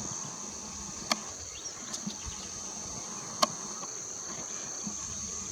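Steady high-pitched insect chorus, like crickets, trilling without a break. Two sharp clicks stand out, about a second in and again past the three-second mark.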